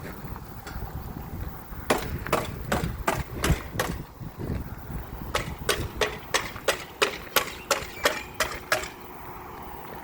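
Hammer blows in two runs of quick, regular strikes, about three a second: a short run of about seven, a pause, then a longer run of about eleven.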